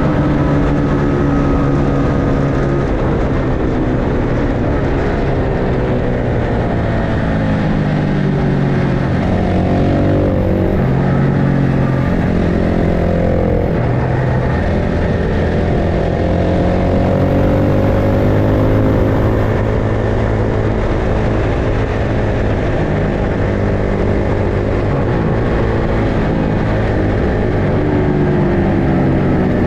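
Several ultralight superbike road-racing motorcycles running hard on track, their engine notes overlapping. The pitch rises and falls as the bikes shift and go past.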